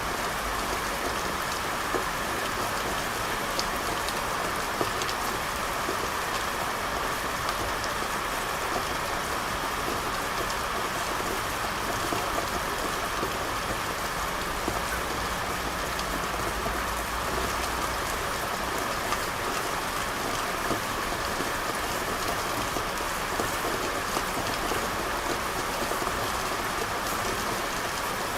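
Steady rain falling on a street: an even, dense patter of drops that holds unchanged throughout.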